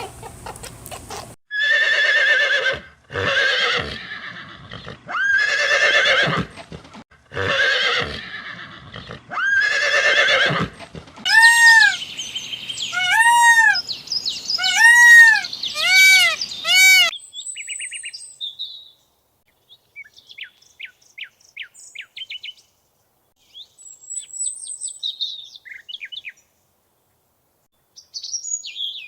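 A run of animal calls: five loud pitched calls of about a second each, then a quick series of rising-and-falling whistled notes. After that come scattered short high chirps.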